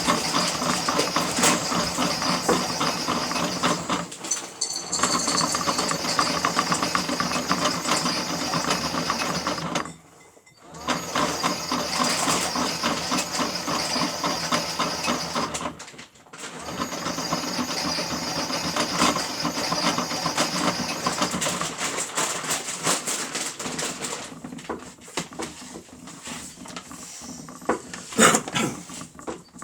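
Small electric motor of a Miele W1 toy washing machine running, turning the drum with a rapid, steady rattle. It stops briefly twice, about ten and sixteen seconds in, then runs quieter and more unevenly with scattered clicks near the end.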